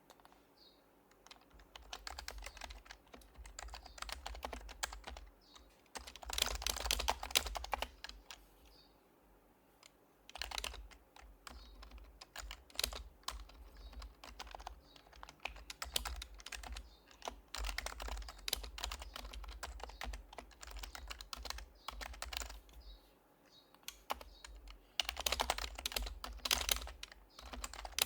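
Typing on an HHKB Professional Hybrid Type-S keyboard with silenced Topre capacitive switches. Quick runs of keystrokes start about two seconds in and come in bursts with short pauses between them, the busiest runs a quarter of the way in and near the end.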